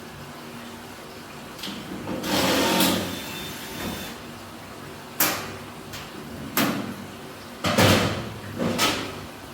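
A scrape followed by several separate sharp knocks and clatters, as of parts being handled and set down during a dryer repair, over a faint steady hum.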